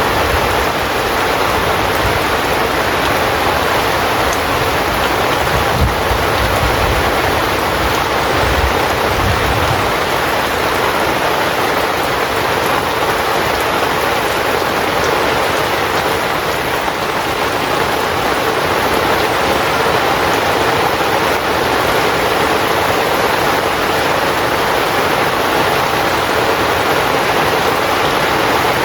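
Heavy rain falling steadily on a tent, a dense, even hiss of drops, with a deeper rumble under it for the first third or so.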